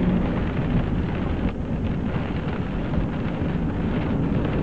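Heavy rain mixed with hail pouring down as a dense, steady hiss, with wind buffeting the microphone.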